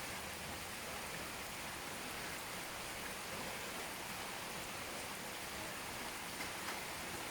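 Rain falling steadily, an even hiss with a few faint drop ticks.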